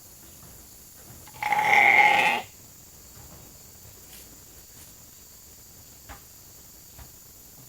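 A sheep bleating once, a single call of about a second, about one and a half seconds in. A few faint ticks follow.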